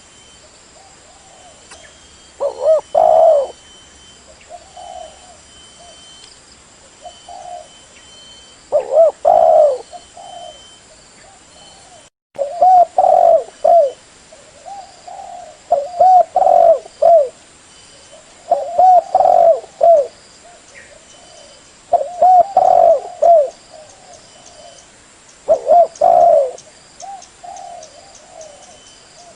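Spotted dove (terkukur) cooing: loud phrases of several low coos repeated about every three seconds, with fainter coos in between. The sound cuts out for a moment near the middle.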